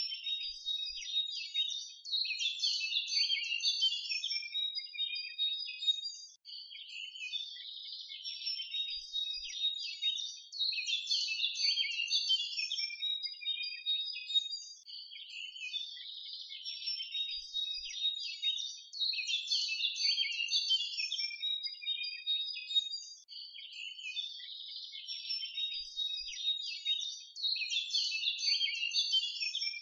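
Small birds chirping and twittering in a dense, high chorus. The same stretch of song repeats about every eight and a half seconds, like a looped recording.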